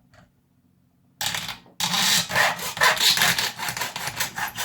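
Hacksaw cutting into a hard plastic blaster handle in quick back-and-forth strokes, starting about a second in after a near-silent pause.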